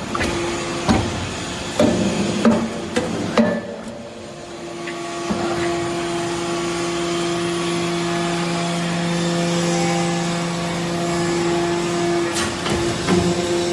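Hydraulic metal-shavings baler at work: a run of sharp metal knocks, then a steady machine hum with a held tone for several seconds, then more knocks near the end.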